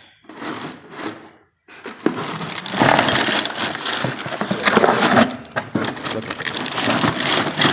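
Loose hard parts clattering and scraping as they are rummaged through, a dense run of clinks and knocks starting about two seconds in.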